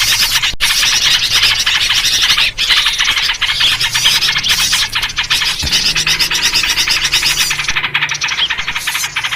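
A loud, unbroken commotion of small songbirds chattering rapidly, a 'noisy birds' luring recording built around yellow-vented bulbul (trucuk) calls.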